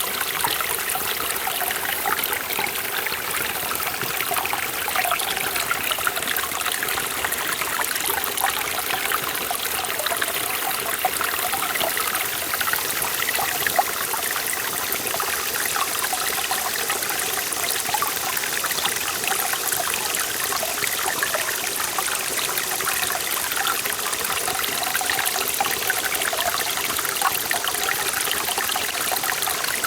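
Forest valley stream flowing steadily over rocks, a continuous rush of water with many small splashes and trickles.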